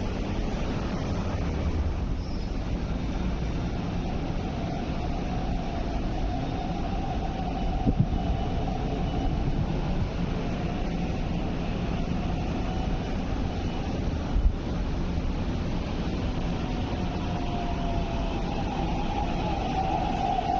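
MTR East Rail Line R-train electric train running into the platform: a steady rumble, with a whine that glides down in pitch and grows louder near the end as it slows. Two brief knocks are heard in the middle.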